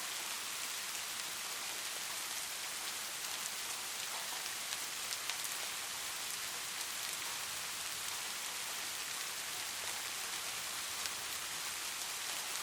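Light rain falling steadily: an even hiss of rain with fine drop ticks.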